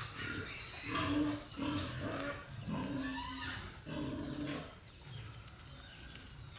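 An animal calling: a run of short pitched cries, each about half a second long, over the first four seconds, then it goes quieter.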